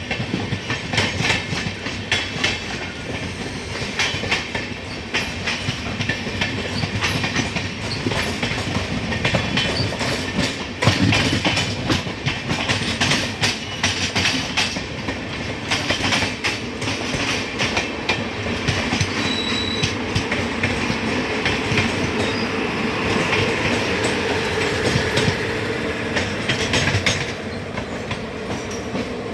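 Passenger train coaches rolling past as the train enters a station, wheels clattering steadily over rail joints. A faint wheel squeal comes in about two-thirds of the way through.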